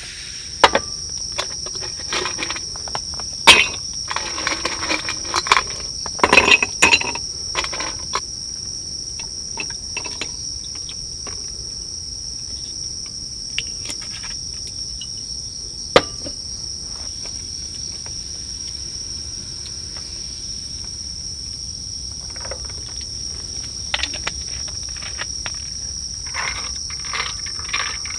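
Steady high-pitched chirring of crickets throughout. Clusters of sharp clicks and knocks, like objects being handled, come in the first eight seconds and again near the end.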